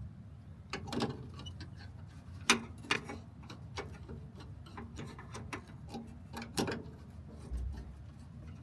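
Irregular clicks and taps of hand tools and bolts being worked while a license-plate bracket is removed, the loudest about two and a half seconds in, over a steady low hum.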